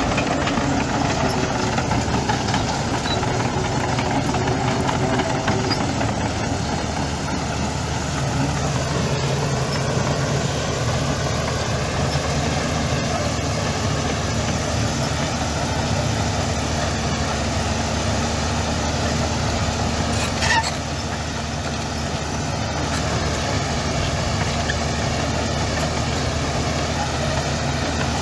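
Heavy diesel engine of earthmoving machinery running steadily with a low drone. A single brief sharp sound comes about two-thirds of the way through.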